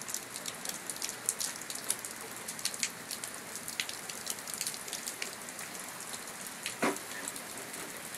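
Steady rain falling, with many close raindrops splatting on hard surfaces, and one louder drop or drip hit just before the seven-second mark.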